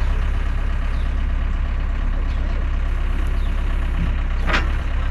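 A vehicle engine running at a steady idle, a continuous low rumble, with one brief sharp sound about four and a half seconds in.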